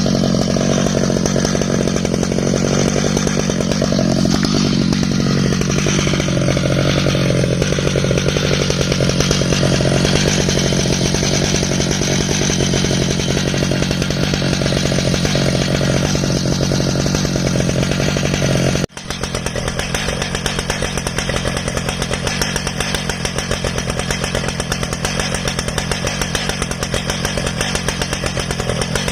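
Stihl MS 881 two-stroke chainsaw running steadily at a constant pitch in an Alaskan chainsaw mill, ripping lengthwise through an ash log. About two-thirds of the way through the sound breaks off for an instant, then carries on a little quieter.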